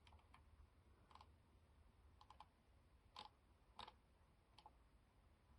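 Near silence broken by about eight faint, scattered clicks from operating a computer.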